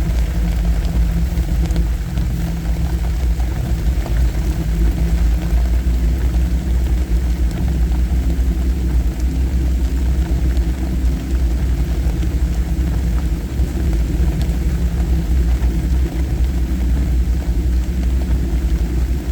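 Steady low drone of an off-road vehicle's engine and tyres, heard from inside the closed cabin while driving a wet dirt trail.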